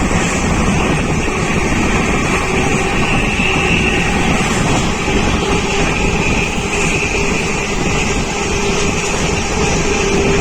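Steady rumble and wind noise of a moving passenger train, with no let-up.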